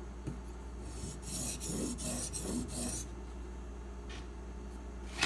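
Steak knife edge, held in a sharpening clamp, scraped across a sharpening stone in a few short rasping strokes about a second in, lasting some two seconds: test strokes to check the bevel angle against fresh Sharpie marking.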